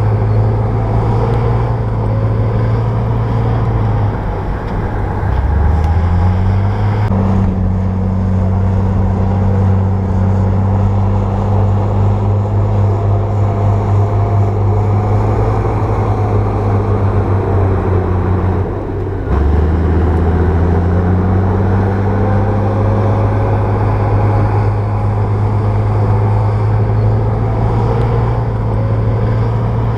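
Bulldozer's diesel engine running loud and steady. Its pitch drops about four seconds in and climbs back, then drops and climbs back again about nineteen seconds in.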